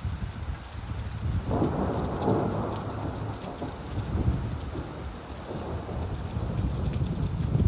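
Steady rain with a low, rolling rumble of thunder; the roll swells about a second and a half in and dies back a few seconds later.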